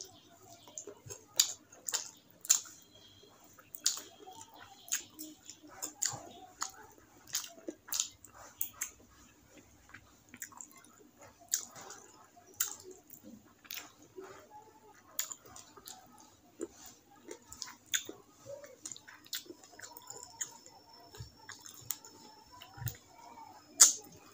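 Close-up chewing and wet mouth sounds of a person eating rice and curry by hand: irregular sharp lip smacks and clicks, about one or two a second, with the sharpest smack near the end.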